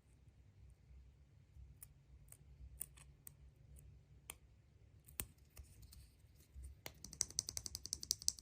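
Hands handling surprise-egg packaging: scattered light clicks and taps, then near the end a quick run of about a dozen crackly clicks a second.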